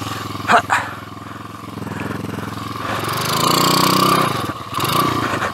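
A 2007 PitPro 140cc pit bike's single-cylinder four-stroke engine runs at low revs. There are two sharp knocks about half a second in. About three seconds in the engine revs up for a second or so, then drops back.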